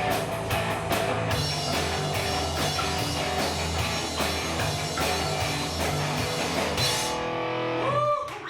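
Live rock band playing electric guitar, bass and drum kit with a steady beat. Near the end the cymbals drop out and the song stops about a second before the end.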